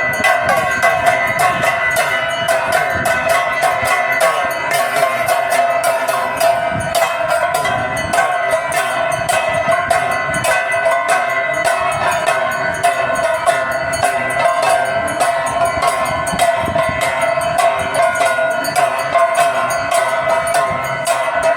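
Aarti bells and metal percussion clanging in a fast, steady rhythm, with a continuous metallic ringing underneath.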